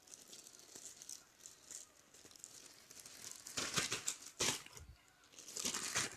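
Rustling and crinkling as a fabric pouch and its packaging are handled, with louder bursts of crinkling about three and a half seconds in and again near the end.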